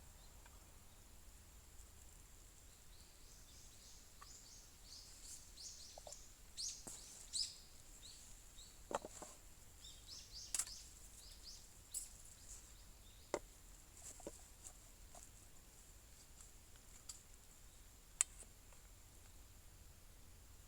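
Small birds calling outdoors: a quick run of short, high, falling chirps in the first half, then a few scattered single calls. A few sharp isolated clicks or snaps are heard, the loudest near the end.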